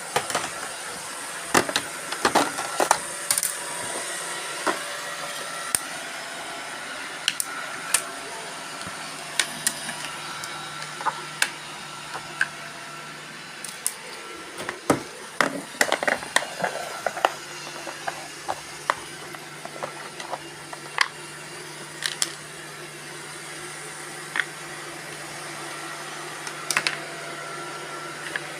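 Several robot vacuum cleaners, among them a Roomba 560, running together with a steady whir and hum. Frequent irregular sharp clicks and knocks, heaviest around two to three seconds in and again around fifteen to seventeen seconds in.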